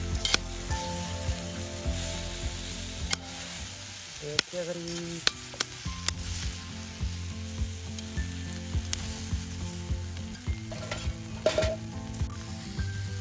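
Edamame pods frying in oil with garlic in a black iron frying pan over a wood fire, sizzling steadily. Metal tongs click against the pan now and then.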